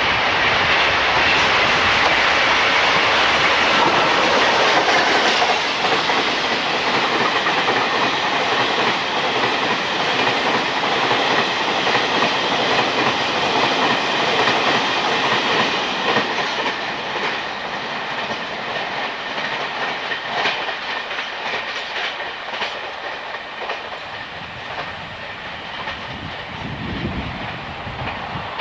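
A train running past on jointed track, its wheels clacking over the rail joints. The running noise is loudest over the first half and eases off after about 16 seconds, leaving a run of separate clacks.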